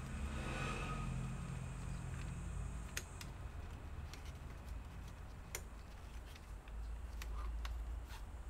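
Scattered sharp clicks and taps from laptop parts being handled during disassembly, over a steady low hum.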